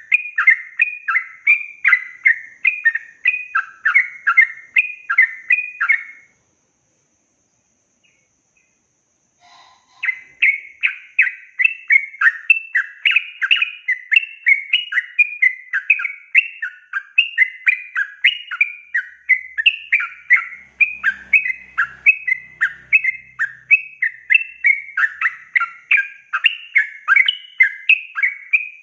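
Yellow-vented bulbul singing a fast, unbroken run of short chirping notes, about three a second. It stops for nearly four seconds about six seconds in, then takes up the same run again.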